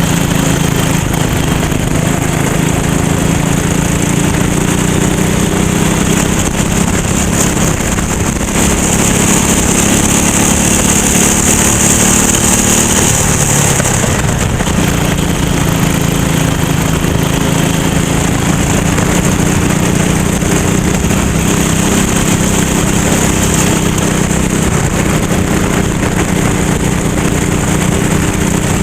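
Racing kart's small engine running hard at full race pace, its pitch repeatedly sliding down and climbing back up as the kart slows for corners and accelerates out, with short dips about eight and a half and fourteen seconds in.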